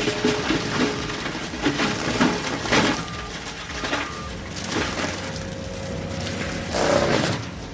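Wood cracking and splintering as heavy machinery crushes it, with irregular sharp cracks over dense machine noise and a louder burst about seven seconds in.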